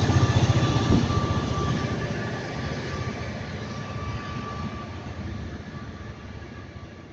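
Diesel train running past on the line, its engine rumble and wheel noise dying away steadily as it moves off into the distance.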